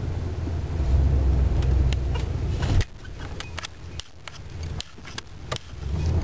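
1985 Chevrolet Caprice's small-block V8 idling rough, heard from inside the cabin as an uneven low rumble, which the owner puts down to a timing chain that has skipped a notch. About three seconds in the rumble drops off sharply to a much quieter sound with scattered clicks, and it comes back near the end.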